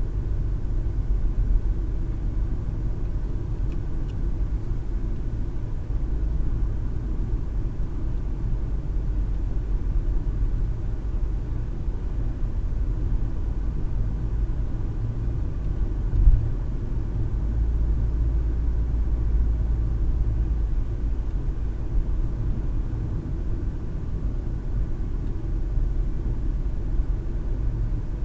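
Car driving along a road, heard from inside the cabin: a steady low rumble of tyres and engine, with one brief thump about 16 seconds in.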